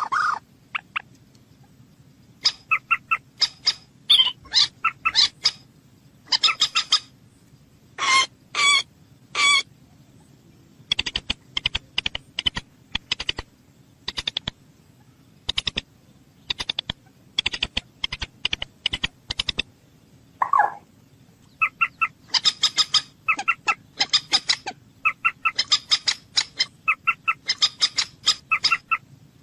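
Moorhen calls: bursts of short, sharp, clucking notes repeated in quick series, with one lower, longer call about two-thirds of the way through.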